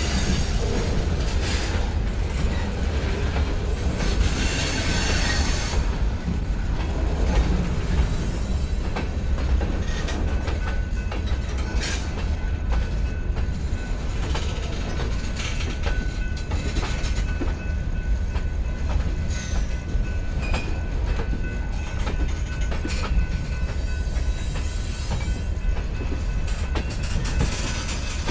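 Slow freight train of tank cars and boxcars rolling past close by: a steady low rumble of the cars with irregular clicks and clanks of wheels over the rails.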